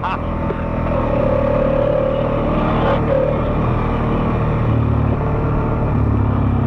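ATV engine running steadily under way, its pitch shifting a little in the second half.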